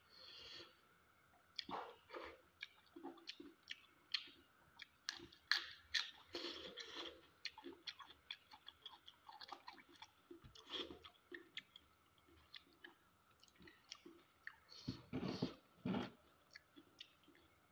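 A person chewing with the mouth close to the microphone: repeated chewing and biting with many small mouth clicks, and a louder cluster of bites about fifteen seconds in. A faint steady hum runs underneath.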